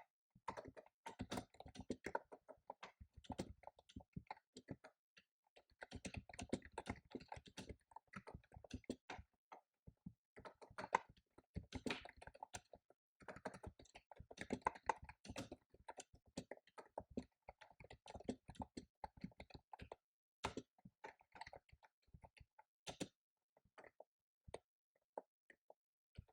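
Fast typing on a computer keyboard: rapid runs of key clicks broken by short pauses, thinning to scattered keystrokes near the end.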